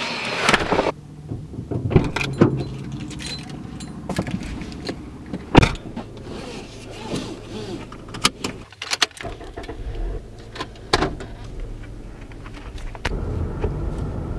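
Clicks and knocks, as from handling things inside a car, over a low steady rumble.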